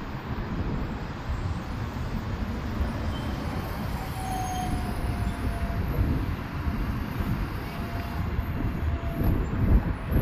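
Wind buffeting the microphone over a steady rumble of city street traffic, with a faint brief whine partway through.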